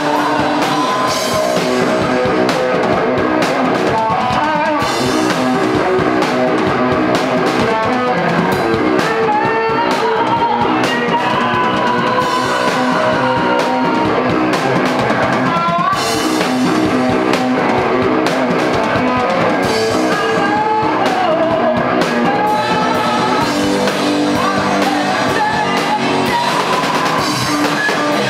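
Rock band playing live: guitars and drum kit with a singer, a song at full volume.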